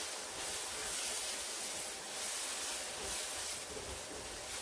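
Beef keema and freshly added chopped tomatoes sizzling in hot oil in a pot while being stirred with a slotted spatula. The hiss swells and eases about once a second with the stirring strokes.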